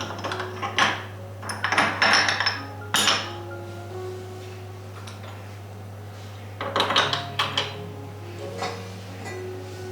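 Dishes and cutlery being handled, clinking and clattering in several short bursts over soft background music.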